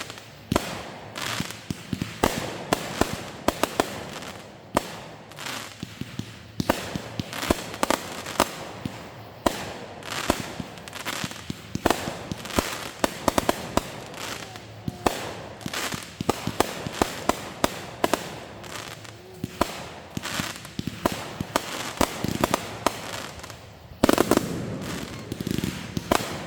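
Fireworks going off: a rapid, irregular string of sharp bangs and crackling pops, with a louder volley near the end.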